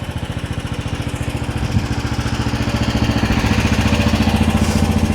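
Diesel engine of a QH13R mini excavator running with a steady pulsing beat, getting louder as it works harder from about a second and a half in, with a single sharp knock near two seconds.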